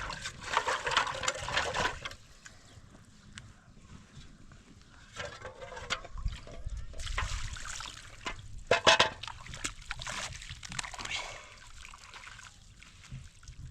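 Water splashing and trickling in irregular bursts, with quieter gaps between.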